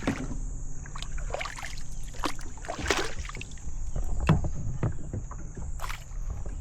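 Kayak paddle strokes dipping and splashing in lake water, irregular splashes about once a second over a low rumble.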